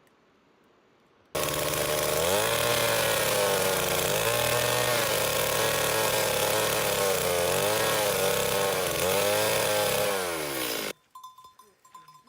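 A small engine running at high speed, its pitch dipping and recovering several times as if under load, starting suddenly about a second in and cutting off abruptly near the end.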